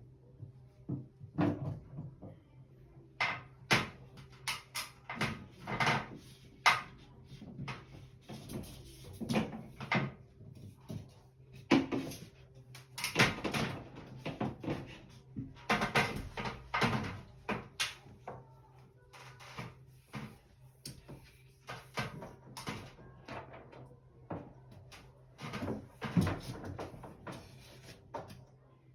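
Irregular knocks, clicks and clatter in quick clusters, like hard objects being handled, set down or fitted, over a faint steady low hum.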